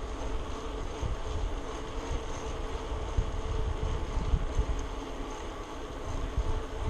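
Wind buffeting the microphone of a camera carried on a moving bicycle, gusting unevenly, over a steady faint hum of the ride.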